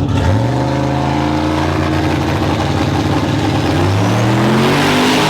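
Drag-racing truck engine accelerating hard, its pitch climbing, then dropping and climbing again about four seconds in.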